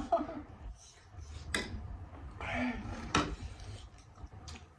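Spoon clinking against a dish twice during eating, about one and a half and three seconds in.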